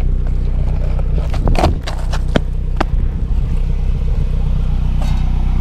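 A car engine idling steadily, with a few sharp clacks of a penny board hitting the pavement during a kickflip attempt, a cluster about a second and a half in and two more single clacks soon after.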